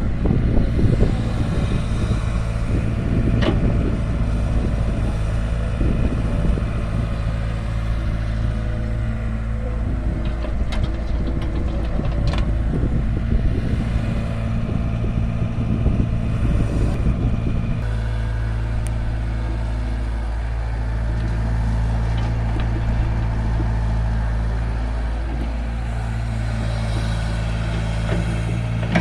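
Heavy machine's diesel engine running steadily, with a rougher, rattling sound and a few sharp clicks until about two-thirds through, then a smoother, even running.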